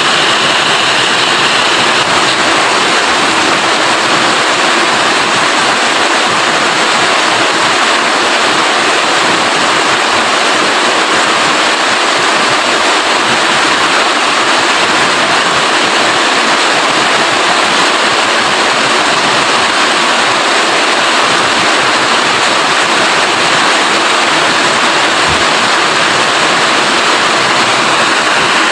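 Heavy rain falling steadily: a dense, even hiss of water with no let-up.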